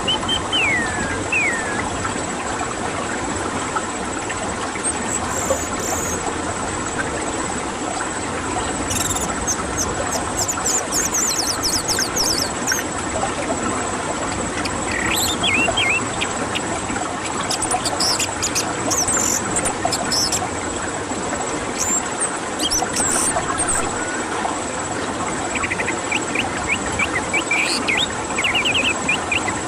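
Orange-headed thrush singing in scattered phrases of sliding whistles and fast, high trills over a steady background hiss, with a thin steady high whine.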